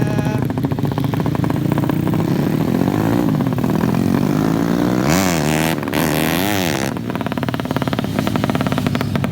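Racing motorcycle engines running hard, with several quick rises and falls in pitch a little past halfway.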